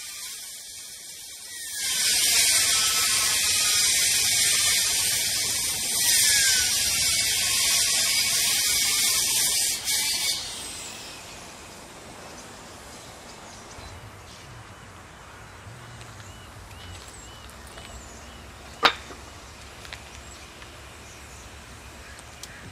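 Work on wooden boards at a building site: a loud hiss of tool noise begins about two seconds in and stops suddenly about eight seconds later. Quieter outdoor background follows, with a single sharp knock near the end.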